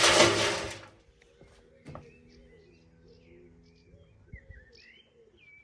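A loud noisy rush stops abruptly about a second in. After it, birds chirp faintly over a low steady hum.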